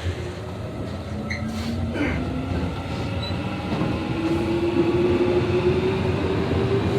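Electric commuter train running, heard from inside the passenger car: a constant rolling rumble with a motor whine that rises steadily in pitch as the train speeds up. The wheels have not been reprofiled, which gives the heavy thump-thump from the wheels.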